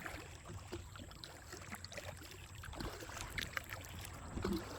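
Kayak paddle dipping and stroking through creek water, with small splashes and drips falling off the blade.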